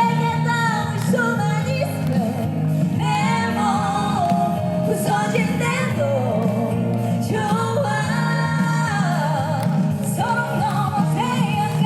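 Live band performance heard through the PA: a lead vocal sings the melody over amplified pop-rock accompaniment with a steady bass.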